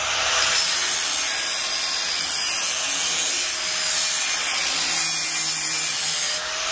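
Power grinder grinding down freshly welded seams on the steel walls of a stove body, a steady harsh grinding.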